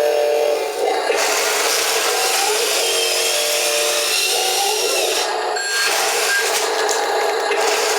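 Wheel loader's motor running steadily as it works the slope, its pitch rising and falling a few times.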